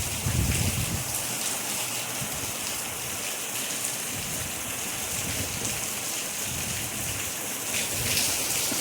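Steady rain falling, an even hiss without pauses, with soft low rumbles now and then.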